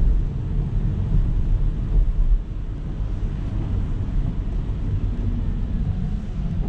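A car driving on a city road, heard from inside: a steady low rumble of tyres and engine that eases slightly about two and a half seconds in.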